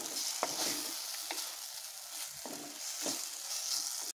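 An onion-tomato masala with a ground raw paste sizzles in oil in a kadai as a spatula stirs it, scraping the pan about once a second. The paste is being fried until its raw smell cooks off. The sound cuts off suddenly near the end.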